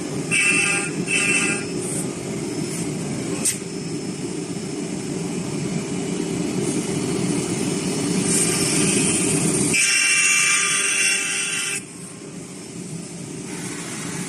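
Automatic CNC wood lathe and milling machine running and cutting a wooden chair leg: steady machine noise with bursts of high-pitched whine. The low noise stops about ten seconds in, leaving a whine for about two seconds.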